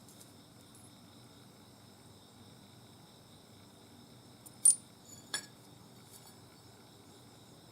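Two short, sharp clinks about two-thirds of a second apart, the first the louder, over a faint steady high chirring of insects.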